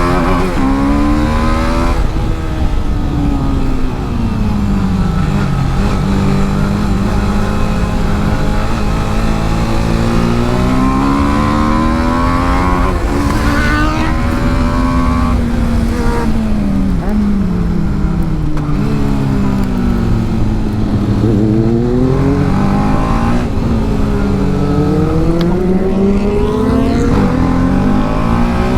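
TVS Apache RR310's single-cylinder engine heard from onboard at racing pace. Its revs climb and drop again and again as it accelerates, shifts gear and slows for corners, over a steady low rumble.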